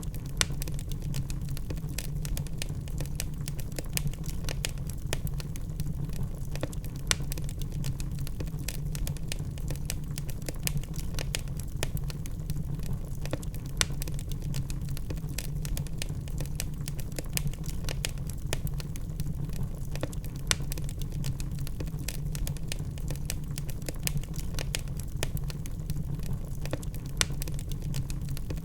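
Logs burning in a fireplace: constant sharp crackles and small pops over a steady low rumble, with a few louder pops scattered through.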